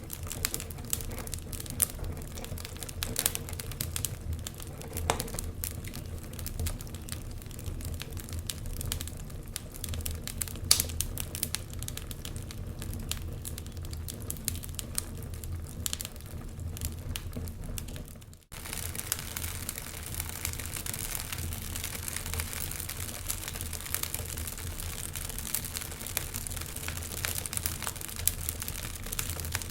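Wood fire crackling and popping, with many sharp irregular snaps over a steady low rumble. The sound drops out for an instant about two-thirds of the way in, then carries on a little hissier.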